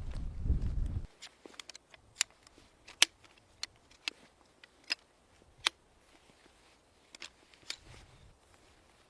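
A low rumble, like wind on the microphone, that stops abruptly about a second in, followed by scattered sharp clicks and snaps at irregular intervals.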